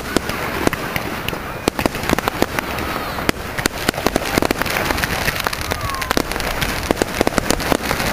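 Fireworks going off in a display: a dense, irregular run of sharp crackling pops and bangs, several a second.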